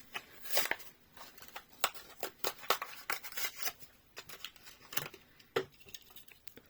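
Blister-card packaging of a Hot Wheels premium diecast car being torn and pried open by hand: irregular crackles and sharp clicks of plastic and card.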